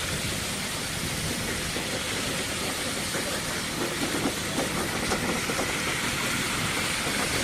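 A heavy vehicle running under a steady rushing hiss, with some scattered knocks and rattles about halfway through.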